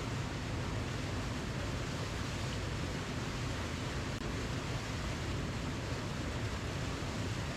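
Steady rushing of a waterfall: an even, unchanging wash of noise with a deep low rumble underneath.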